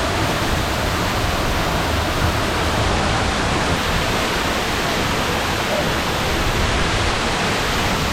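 Waterfall rushing: a steady, full roar of falling water close by.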